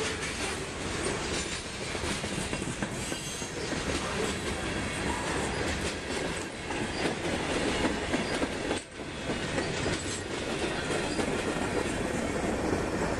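A long freight train's cars rolling past, steel wheels clattering over the rails with some wheel squeal, with a brief dip about nine seconds in.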